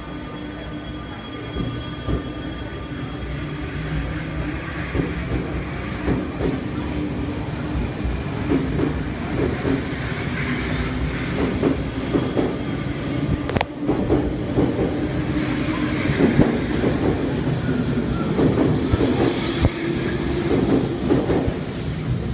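RER B commuter train, a Z 8100 (MI79) unit coupled to a Z 8400 (MI84), pulling out of an underground station and accelerating past, getting louder as it goes. Its wheels clatter and rumble over the track under a steady electric whine, with one sharp crack about halfway through.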